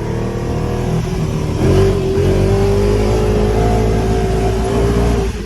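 ATV engine running under way, revving up about a second and a half in and then holding a steady higher speed, with a brief dip near the end.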